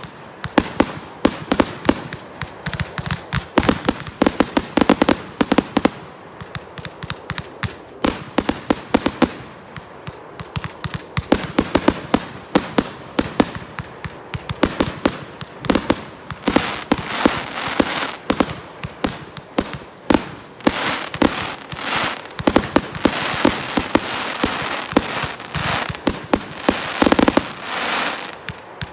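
Fireworks going off in rapid succession: a near-continuous run of sharp bangs and cracks, thickening into denser crackling volleys in the second half.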